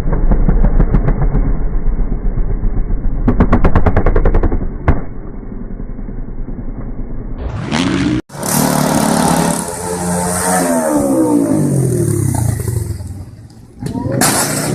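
Motorcycle engines running and revving across cut-together clips. The first is muffled, with a quick run of rattling clicks about four seconds in. After a cut about eight seconds in comes a clearer engine whose pitch swings down and up as it revs.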